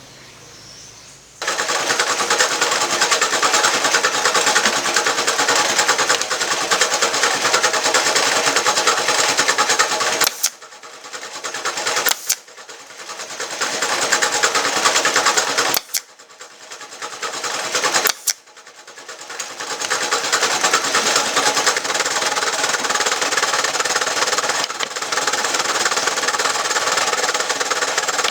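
Handheld electric power tool running steadily under load, switched on about a second and a half in. Around the middle it cuts out briefly four times and each time builds back up to full speed.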